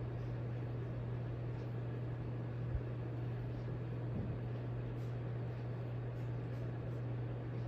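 Hampton Bay Minuet II 32-inch ceiling fan running, its motor giving a steady low hum over a soft whir of moving air. A single soft knock a little under three seconds in.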